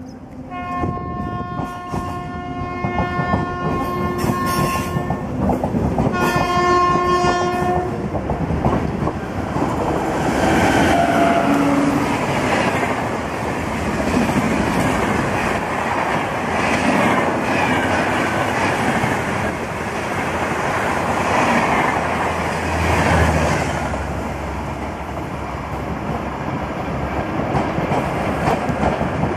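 An Indian Railways express train behind an electric locomotive, passing at high speed. The locomotive's horn sounds twice, a long blast of about four seconds and then a shorter one about six seconds in. After that the coaches rush past with a steady roar and the clickety-clack of wheels over rail joints.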